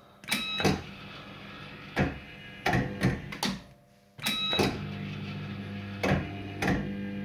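Bell Fruit Firecracker fruit machine playing two games: each starts with a short beep and a steady motor hum as the reels spin, then the reels stop one after another with sharp clunks. The second game begins just after a brief quiet gap about four seconds in.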